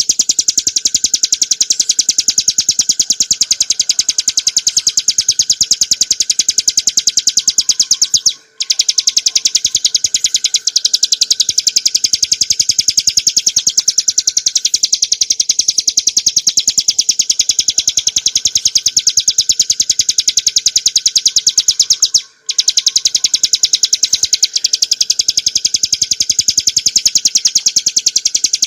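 Ciblek gunung, a small prinia, singing a continuous, very rapid, high-pitched run of evenly spaced notes. The song breaks off for a split second twice.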